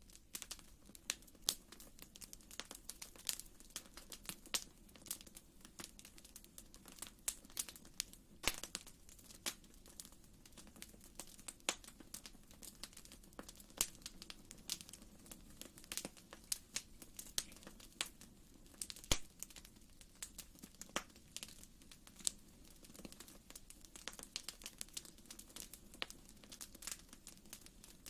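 Wood fire in a fireplace crackling, with irregular sharp pops several times a second over a soft, steady low rumble.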